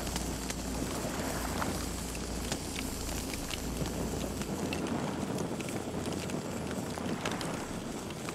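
Campfire crackling, with frequent small sharp pops over a steady hiss. A low rumble under it stops about halfway through.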